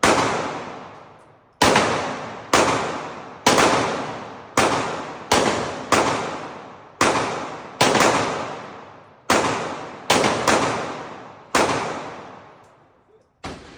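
Firearm shots fired one at a time at an uneven pace, about fourteen in all with gaps of half a second to a second and a half, each loud crack followed by a long ringing echo that fades out.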